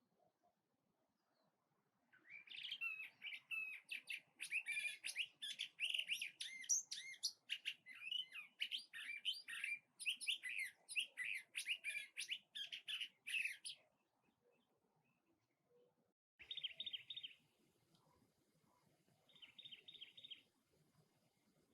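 A songbird delivers a long, fast, varied melodious song of whistled and gliding phrases for about eleven seconds. It is followed by two short, harsh, rapidly pulsed chattering bursts, typical of a cactus wren's rasping song.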